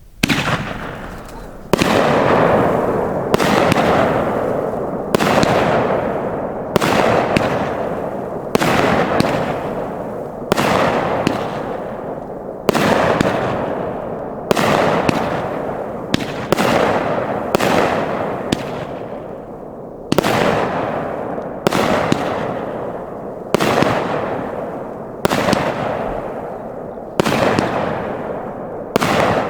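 A 500-gram, 25-shot consumer fireworks cake with one-inch tubes firing shot after shot, a sharp report about every one and a half to two seconds, each trailing off as it fades.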